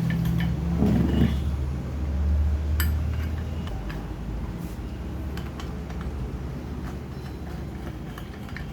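A low engine-like rumble that swells about two seconds in and slowly fades, with light metallic clicks and clinks of parts being handled.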